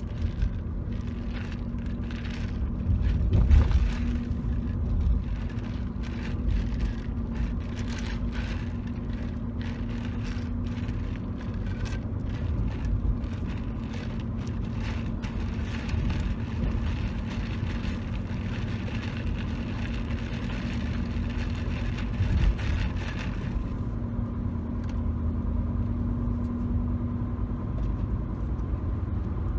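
Low, steady rumble of a moving car heard from inside the cabin, with many light taps and scratches on the car's interior surfaces over it. The tapping thins out and mostly stops about three-quarters of the way through, leaving the road rumble.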